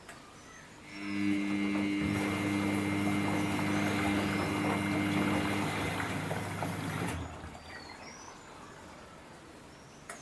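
Samsung front-load washing machine running a rinse-and-spin cycle. About a second in, a steady hum with rushing water starts, then stops after about six seconds.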